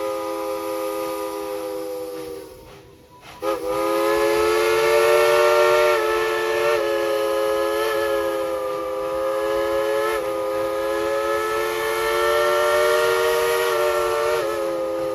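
Steam locomotive's chime whistle sounding a chord of several notes at once: one blast that dies away about two and a half seconds in, then after a brief break a long held blast of about eleven seconds, wavering slightly in pitch.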